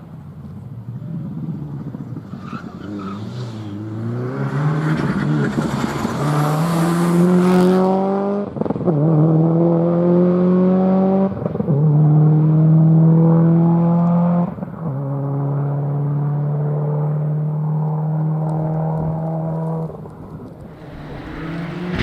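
Rally car accelerating hard through the gears: the engine note climbs, drops at each of three quick upshifts, then holds steady before fading away near the end, when the next car is heard coming.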